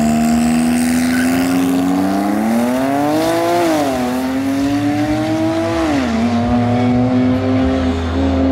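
A car engine running steadily, its revs rising twice and falling back sharply each time, as when accelerating and shifting gear.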